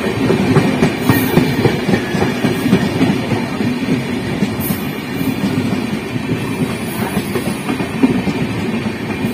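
Indian Railways passenger coaches rolling past at close range: a steady rumble of steel wheels on the rails, with clattering over the track.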